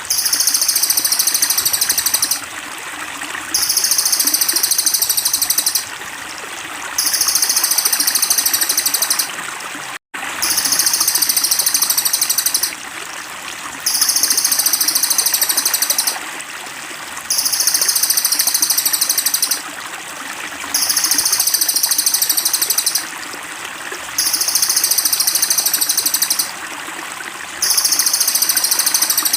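Songbird-training (masteran) audio: a very high, rapid pulsing trill repeated in phrases of about two and a half seconds with roughly one-second pauses, over a steady trickle of running water. The sound cuts out for an instant about ten seconds in.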